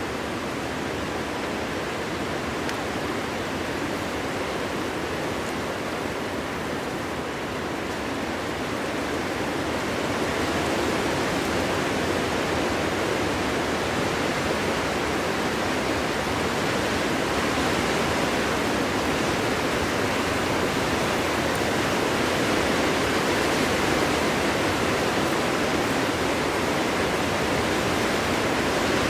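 Steady wind blowing through a winter forest, an even rushing noise with no gusting breaks, growing a little louder and brighter about ten seconds in.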